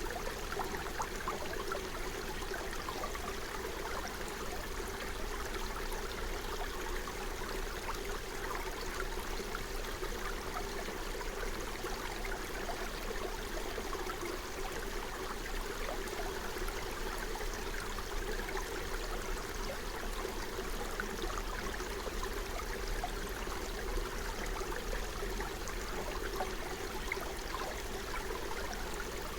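Forest stream flowing and babbling steadily, a constant rush of running water.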